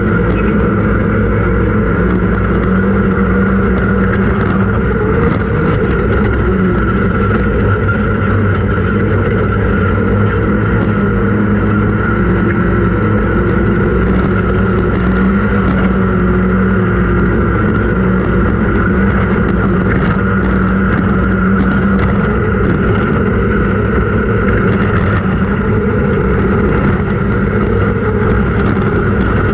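Off-road race vehicle's engine running hard at a steady pitch, with a constant rumble of noise underneath.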